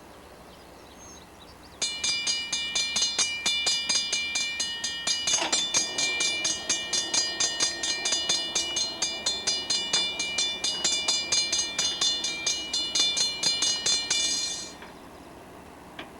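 Railroad grade-crossing bell ringing rapidly, about four strikes a second, starting suddenly about two seconds in and cutting off near the end, with a faint low rumble beneath it from about a third of the way in.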